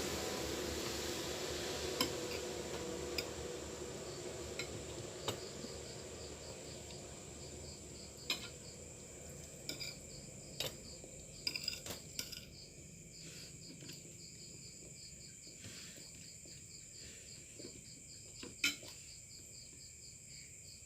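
Utensils clicking and clinking against a plate now and then while the adobo is eaten. Crickets chirp steadily in the background.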